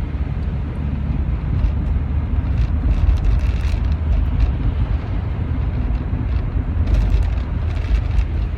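Rover 45 car being driven, its engine and road noise making a steady low rumble.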